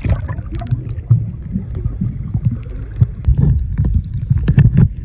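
Irregular low thumps and rumble aboard a moving boat.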